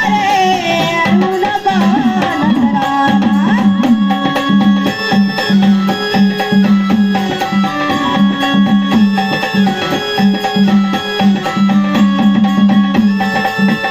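Instrumental interlude of a Marathi gondhal-style folk devotional song: hand drums keep a steady rhythm under a melodic instrument's line, with no singing.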